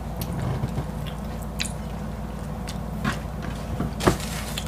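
Close-miked chewing and biting of people eating fried noodles and breaded chicken fillet, with scattered soft mouth clicks and a sharper tap about four seconds in.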